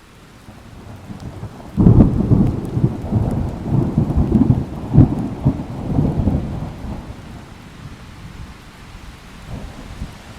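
Thunder during steady rain: a rumble builds, breaks into a sudden loud clap about two seconds in, then rolls on in low waves and fades over the next several seconds, with the rain hiss continuing underneath.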